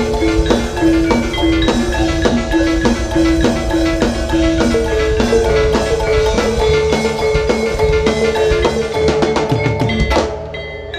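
Javanese gamelan music accompanying a jaranan dance: a repeating metallophone melody over drumming. The ensemble drops away briefly about ten seconds in.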